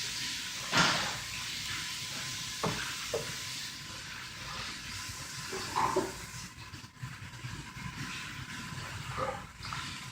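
Steady hiss of heavy rain falling, with a short louder gust of it about a second in and a few light knocks in the room.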